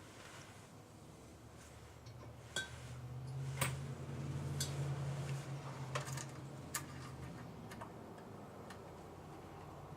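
Light metallic clicks and taps of small distributor parts being handled and unscrewed with a nut driver, about half a dozen scattered through the middle, over a low hum that swells a few seconds in and fades near the end.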